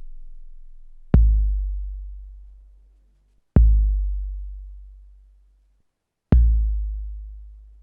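Long-decay bass drum sample played on a 12-bit SP1200 sampler, struck three times: each hit opens with a short click and fades out as a deep boom over about two seconds, the first two booms cutting off abruptly.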